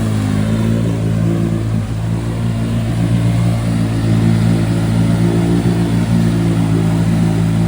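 ATV engine running hard and steady, held near wide open as it pushes through deep mud, its pitch wavering slightly early on and then holding level.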